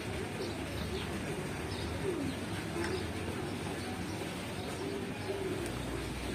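Birds chirping and calling, short scattered calls over a steady background din.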